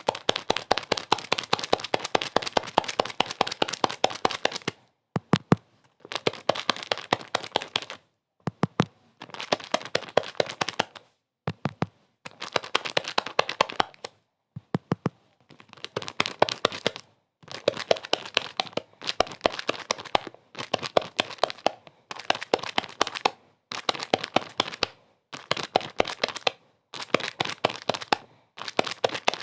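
Dense, rapid crackling, like material being crinkled, in bursts of about one to two seconds with brief silent gaps between them.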